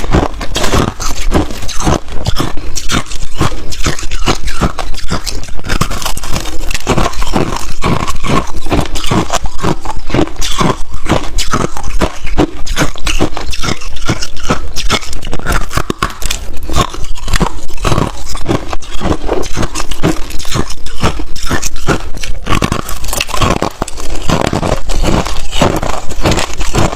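Ice being bitten and chewed: a continuous run of loud, sharp, irregular crunches.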